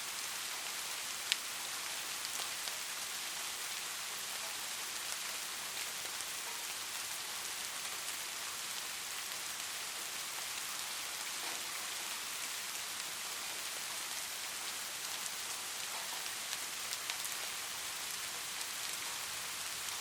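Light rain falling steadily: an even hiss of rain with scattered drop ticks, and one sharper drop about a second in.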